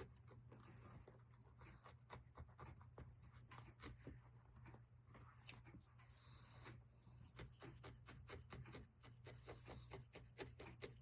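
Felting needle stabbing repeatedly through wool roving into a foam block: a run of faint, quick pokes that turns steadier and more regular in the second half.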